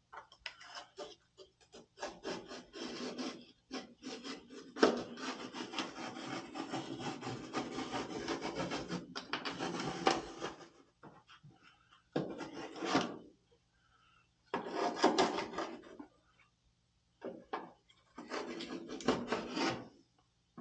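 Hand scraping and rubbing on a surface: a long stretch of continuous rasping strokes, then several shorter bursts with pauses between them.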